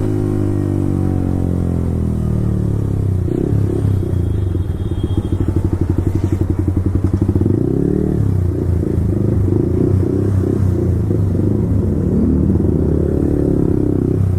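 Yamaha R15 V4's single-cylinder engine through a full-system Akrapovic exhaust, its revs falling after a downshift, then running at low revs with an uneven, pulsing burble and a couple of brief rises in pitch.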